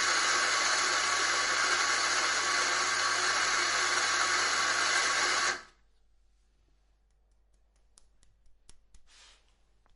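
Electric coffee grinder running with a steady grinding whir and low hum, then cutting off about five and a half seconds in. A few faint ticks and a brief soft rustle follow near the end.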